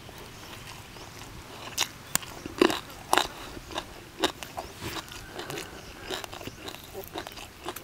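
Close-up chewing of a mouthful of duck larb with crispy skin, with a run of sharp crunches a couple of seconds in.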